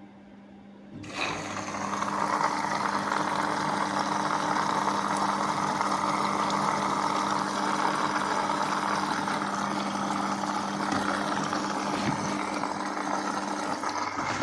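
Siemens front-load washing machine running in its spin-mode test: a steady hum with a whirring, rushing noise that starts about a second in and holds level throughout.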